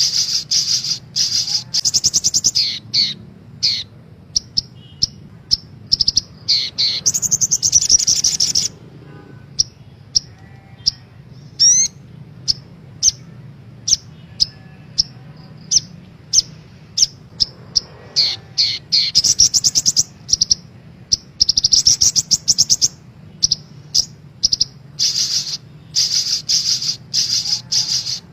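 Sogok ontong (a sunbird) singing: fast, high-pitched trilled phrases and quick chips, repeated again and again with short pauses between, over a faint steady low hum.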